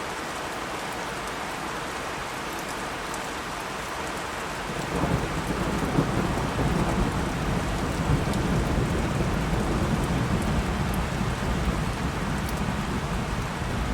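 Steady rain falling, with a low rumble of thunder rolling in about five seconds in and carrying on.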